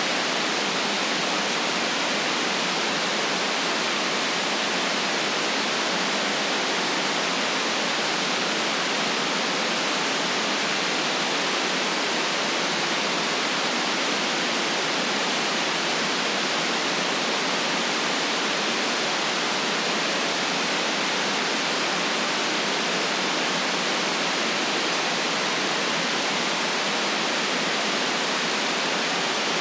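Steady, unchanging synthetic white noise, an even hiss cut off above and below, made as a relaxation sleep aid.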